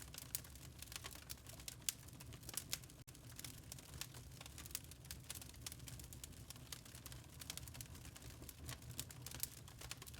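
Log fire crackling in a fireplace: burning wood giving off irregular sharp pops and snaps over a soft, steady low rumble.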